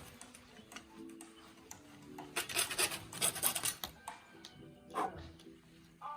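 Background music with a run of rapid rasping strokes lasting about a second, a little over two seconds in, and a short knock near the five-second mark.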